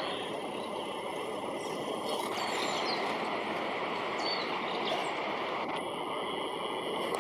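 Steady outdoor rushing background noise picked up by the camera's microphone, with a few faint, short, high bird chirps over it.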